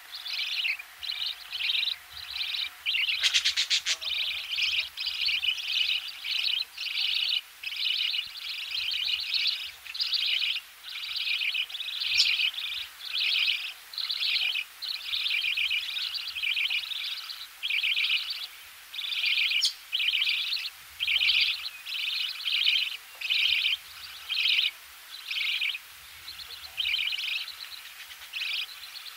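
Budgerigar nestlings begging as they are fed in the nest: close, buzzy chirping calls repeated in quick bursts, about two a second, with a faint low knocking in the background.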